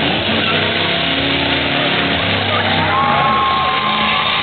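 Chrysler 400 big-block V8 held at high revs with the rear tyres spinning in a burnout, over a constant hiss of noise. A high steady squeal comes in about three seconds in.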